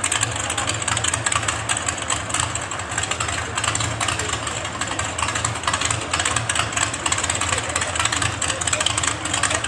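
A competition pulling tractor's engine running loud and steady under load during a tractor-pull run.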